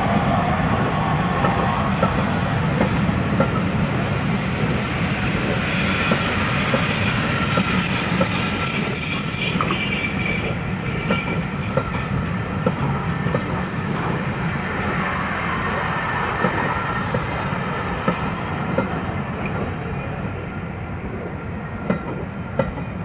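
Railway passenger coaches rolling past close by, the wheels clicking over the rail joints under a steady rumble. A thin, high, steady wheel squeal is heard, strongest for about six seconds midway. The sound eases slightly as the last coach passes near the end.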